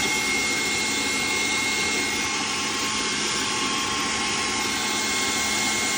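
TOAUTO A1X high-pressure PCP air compressor running steadily: a constant mechanical whirring with a thin high whine and a low hum.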